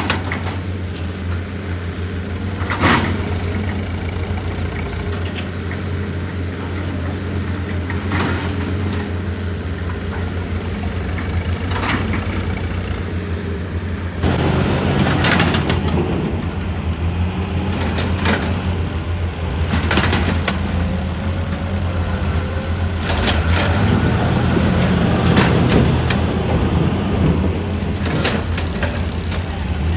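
Heavy diesel excavator running steadily under load, with scattered sharp knocks and clanks from the machine working rock. It gets somewhat louder about halfway through, and the knocks come more often after that.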